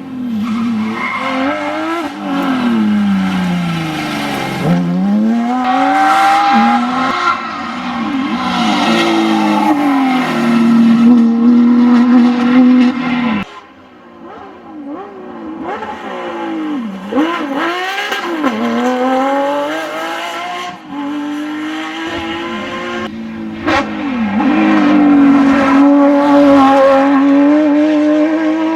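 Porsche 911 GT3 RS rally car's flat-six engine revving hard, its pitch climbing and falling again and again through gear changes and braking. An abrupt cut about halfway through switches to another run at full throttle.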